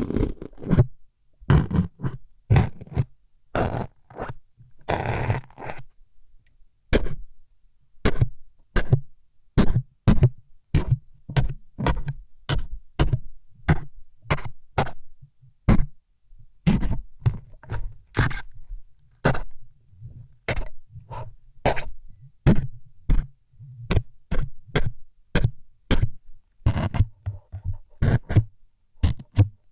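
ASMR needle-stabbing sounds: short, sharp scraping stabs close to the microphone, repeated more than once a second, with a few longer scrapes in the first seconds.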